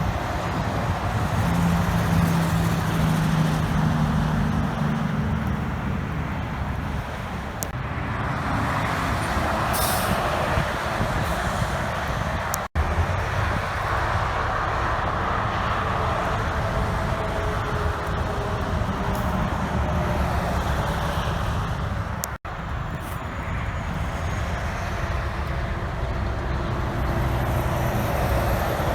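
Heavy trucks driving by on a road: steady diesel engine and tyre noise, with a short air hiss about ten seconds in. The sound drops out sharply twice, at cuts between clips.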